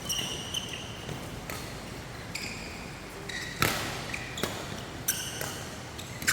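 Badminton doubles rally: sharp racket hits on the shuttlecock about once a second, the loudest about halfway through, with short high squeaks of court shoes on the floor between them.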